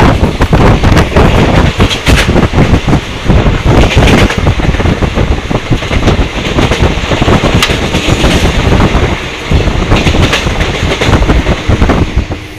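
Passenger train running at full speed, heard from an open coach door: a loud, steady rumble of wheels on rails with an irregular clatter of clicks.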